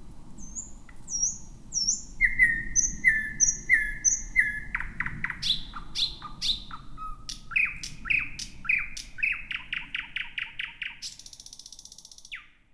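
Thrush nightingale singing a loud song phrase. It runs through repeated whistled notes and sharp clicking notes, then speeds into a fast rattle and a high buzzy trill near the end before stopping.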